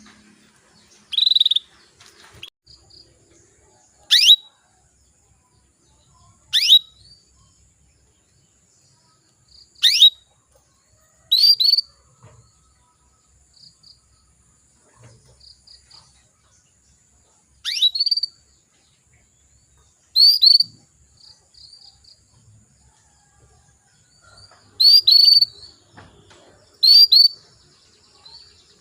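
Female canary giving short, sharp call notes at irregular intervals, about nine in all, each a quick downward-sweeping tweet, some doubled. This is the female's call to a male, used as a lure to get a male canary singing.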